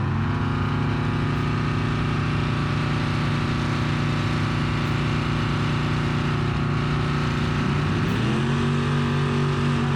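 Twin-turbo GMC pickup's LS V8 running hard on a drag strip launch, holding a steady pitch, then climbing to a higher pitch about eight seconds in. This is a pass where the tires break loose and the truck goes sideways.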